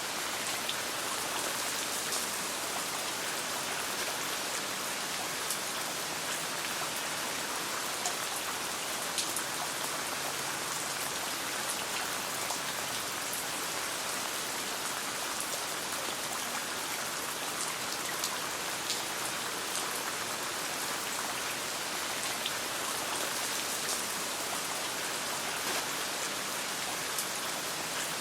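Steady rain falling, an even hiss with scattered small sharp ticks of drops or crackles over it.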